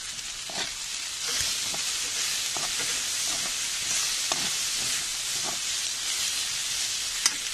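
Okra and green peas sizzling in hot oil in a metal pan while a spatula stirs them, with light scrapes against the pan; the sizzle grows louder about a second in. One sharp clink near the end.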